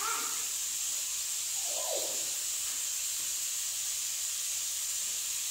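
Steady high-pitched hiss, with a short faint voice sound at the start and another about two seconds in.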